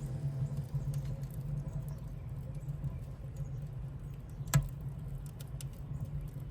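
Fire in an offset smoker's firebox crackling faintly, with scattered small ticks and one sharper snap about four and a half seconds in, over a steady low hum.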